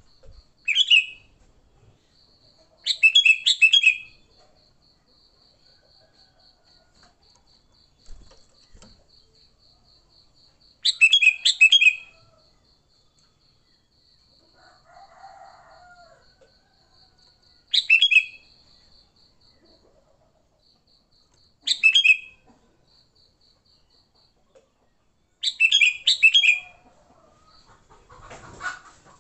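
Sooty-headed bulbul singing in the aggressive 'fighting' style: six short, loud bursts of quick chattering notes, spaced a few seconds apart. A faint, steady, pulsing high trill runs underneath.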